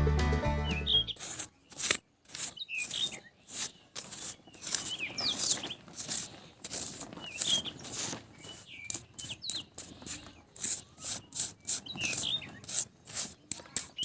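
Music stops about a second in. After that come repeated short bird-like chirps, small quick rising and falling whistles, mixed with many brief scratchy clicks.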